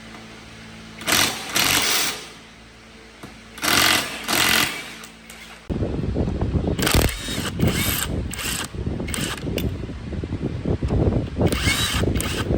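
Power tools at work on motorbike parts: two short hissing bursts over a low hum, then about six seconds in a loud, rapid rattling tool starts and runs on, with more hissing bursts over it.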